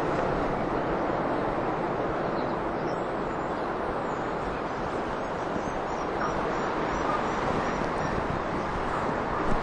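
Steady rushing outdoor noise, with faint high chirps of small birds now and then.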